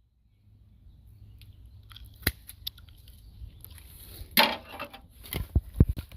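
Scattered sharp clicks and a short crunching rustle over a steady low rumble: handling noise outdoors.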